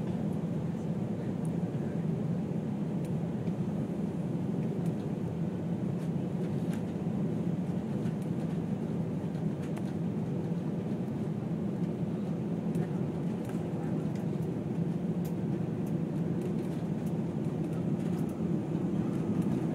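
Steady low rumble of an Airbus A320 airliner's cabin noise, from its engines and airflow, heard from inside the cabin.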